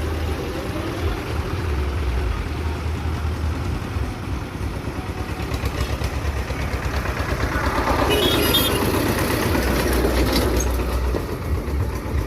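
John Deere tractor engine running with a steady low rumble, growing louder for a few seconds from about eight seconds in.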